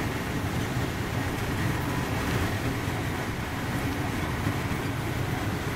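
Steady running noise of a Mark 3 passenger coach on an HST travelling at speed, heard from inside the coach: a constant low rumble of wheels on rail with an even hiss, unchanging throughout.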